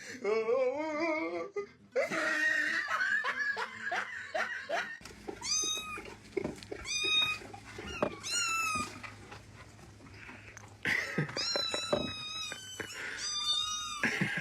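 A cat meowing over and over: a wavering call at the start, then about five short, high meows in the second half, with a few clicks between them.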